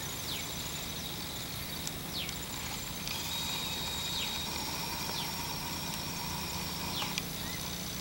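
Faint bird calls: short downward-sliding whistles every second or two over steady outdoor background, with a thin steady high tone through the middle and end.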